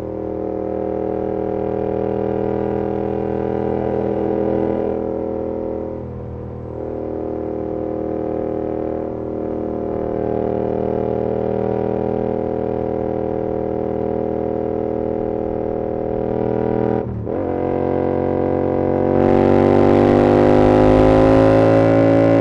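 2022 Yamaha R7's 689 cc parallel-twin engine running through an SC-Project CR-T exhaust, droning at a steady cruise with a short dip about six seconds in. Around seventeen seconds in the note cuts out for an instant. It then rises steadily in pitch as the bike accelerates, with wind noise building near the end.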